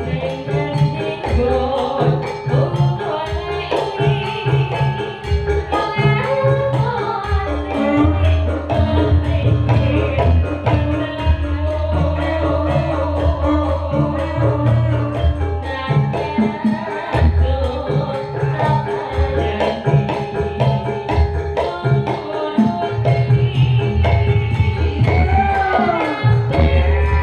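Live Javanese Sragenan-style campursari music: hand drumming and jingling percussion over a heavy pulsing bass, with pitched instruments and a singer's voice that glides in pitch near the end.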